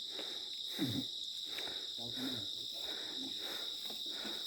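Insects keeping up a steady, high-pitched chorus, with a few faint voices in between.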